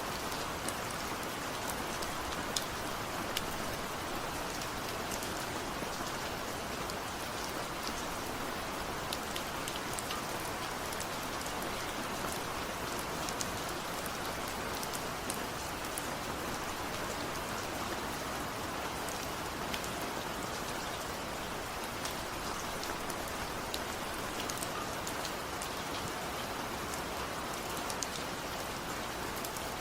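Steady rain, a continuous even hiss with many separate drops ticking on a surface.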